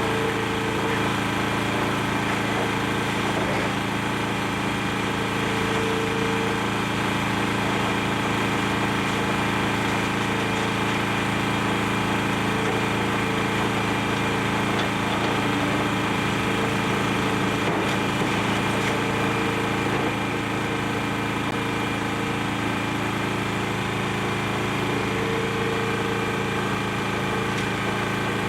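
Excavator engine running steadily, with a tone that rises and falls every few seconds as the machine works.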